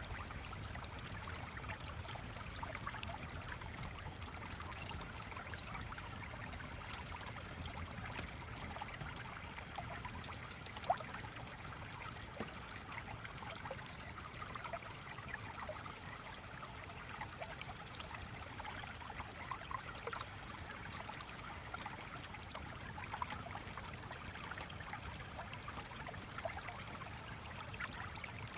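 Small stream flowing and trickling steadily, with scattered small clicks and ticks through it and one sharper click about eleven seconds in.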